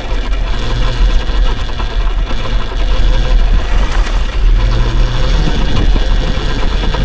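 Riding noise on an electric dirt bike: loud, steady wind buffeting the microphone with rumble from the tyres on a dirt road.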